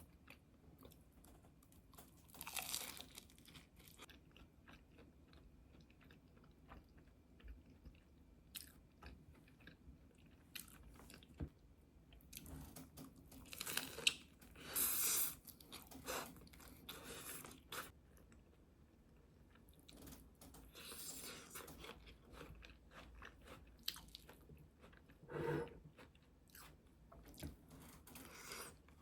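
A person biting and chewing crunchy food, with scattered small clicks and a few louder crunching bursts.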